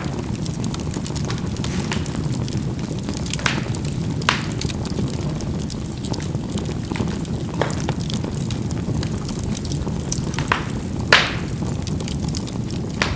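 Charcoal burning in a fireplace: a steady low rumble of the fire with scattered sharp pops as the coals crack, the loudest pop near the end.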